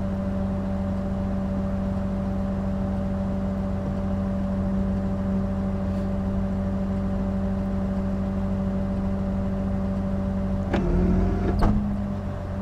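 Rollback tow truck's engine running steadily with a constant low hum. Near the end there is a brief louder sound with shifting pitch.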